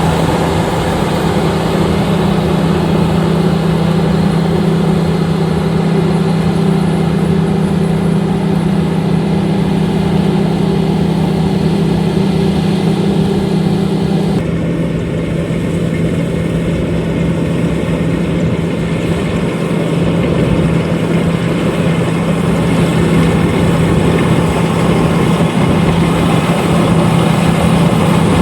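LOVOL RG130EVO combine harvester running steadily with a strong low engine hum. The sound shifts abruptly about halfway through.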